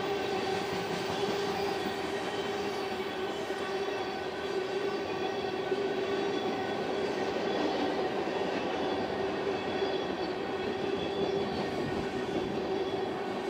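Freight train of tank cars rolling past: a steady rumble and rattle of wheels and cars on the rails, with a steady whining tone held over it.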